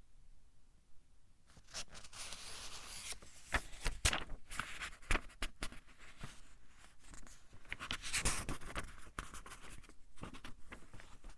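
Pages of a thin-paper book being turned by hand: paper rustling and sliding with sharp crisp snaps as each page flips over, after a brief pause at the start.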